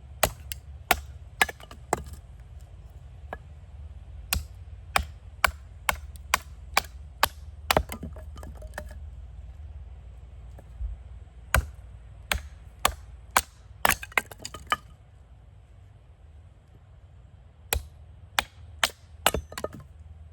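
Sharp chopping strikes on wood, in runs of several at about two a second with pauses between the runs.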